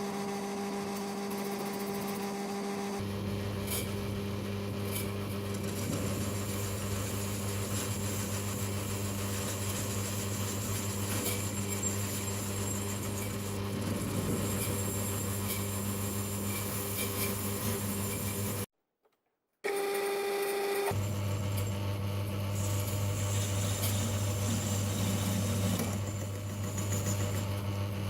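Small metal lathe running with a steady motor hum while a broken twist drill, used as a lathe tool, cuts aluminium stock with a light scraping hiss. The sound stops for about a second two-thirds of the way through, then resumes.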